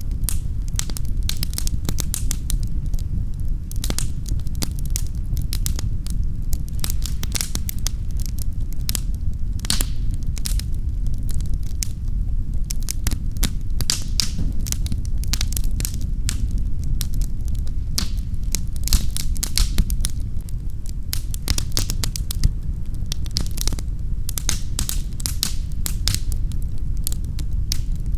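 Wood fire crackling in a fireplace: many irregular snaps and pops over a steady low rumble.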